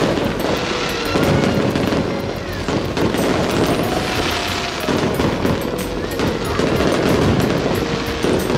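Aerial fireworks bursting in quick succession, a dense run of cracks and booms with no break, over music.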